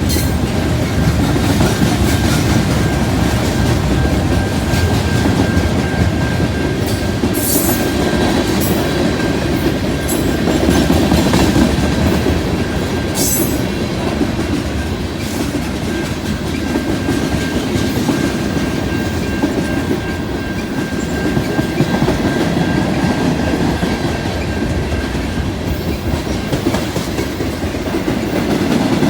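CN freight train rolling past at a road crossing, a steady heavy rumble of wheels on rail with scattered sharp clacks over rail joints.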